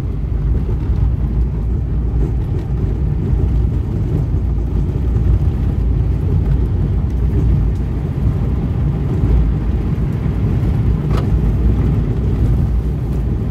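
Vehicle driving down a rough dirt track, heard from inside the cab: a steady low rumble of engine and tyres, with one sharp knock about eleven seconds in.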